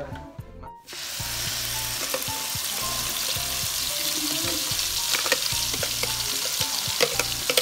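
Blended chilli and spice paste sizzling and spitting steadily as it is spooned into hot oil in a wok, starting about a second in. A few sharp clicks come from the spoon on the jug and the pan. This is the spice paste being sautéed.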